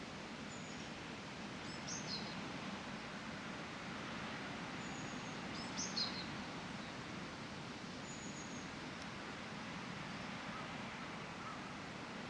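Outdoor park ambience: a steady background hum of environmental noise with a bird calling in short high chirps, a louder call about two seconds in and the loudest about six seconds in, and fainter single chirps between them.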